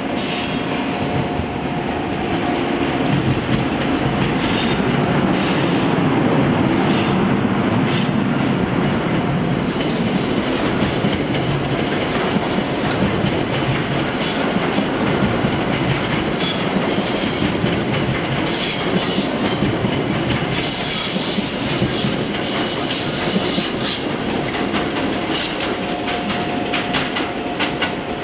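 NJ Transit electric-locomotive-hauled train of Comet coaches rolling past, a steady loud rumble of wheels on rail with clickety-clack over the joints and short high wheel squeals on and off.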